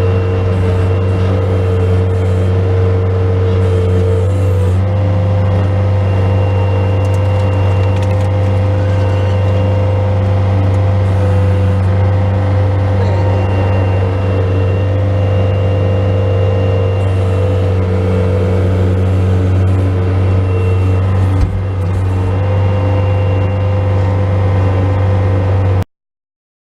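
Bobcat S185 skid steer loader's diesel engine running steadily, with a steady whine over the low drone; it cuts off abruptly near the end.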